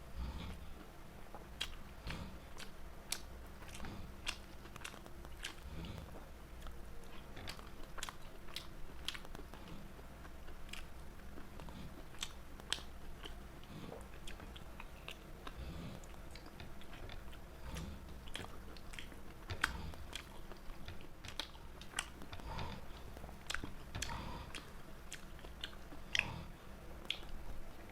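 A person eating close to the microphone: chewing and biting with many irregular, sharp mouth clicks and occasional light crunches.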